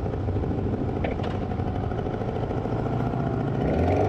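V-twin motorcycle engine running steadily while riding, with road and wind noise and a brief click about a second in.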